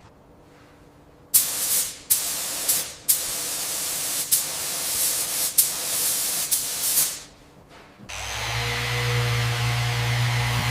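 Compressed-air spray hissing in a series of bursts, each starting sharply. About eight seconds in, a power tool starts and runs with a steady hum.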